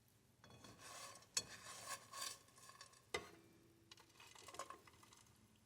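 Faint scraping and stirring of corned beef hash in a frying pan with a utensil, in two spells, with sharp clicks of the utensil against the pan about a second and a half in and again about three seconds in.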